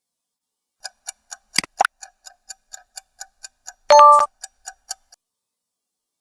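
Countdown-timer sound effect: even clock-like ticking, about four or five ticks a second, with two louder knocks near its start and a loud, short bell-like ding about four seconds in. It marks the answer pause in a listening exercise.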